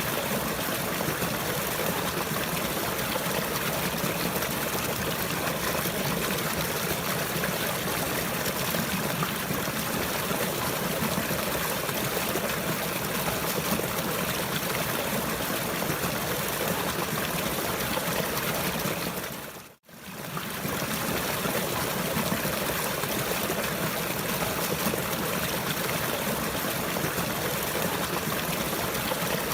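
Water trickling and flowing steadily, like a small stream. About two-thirds of the way through it briefly fades out to silence and straight back in.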